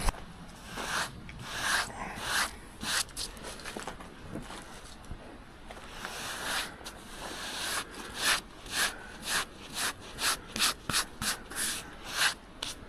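Sawdust being brushed off the face of a freshly sawn hardwood board: short rubbing strokes on the wood, a few at first, then about two a second in the last few seconds.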